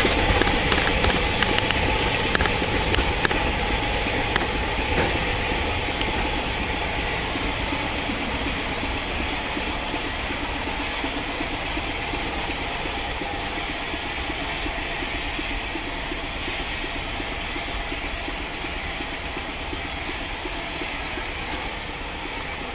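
Steam locomotive running with a steady hiss of steam, its sound slowly fading, with a few light clicks in the first seconds.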